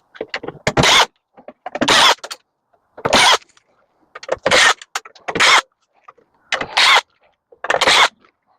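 Power driver run in short bursts to back screws out of a scrapped microwave's casing: seven buzzing bursts about a second apart, with small clicks between them.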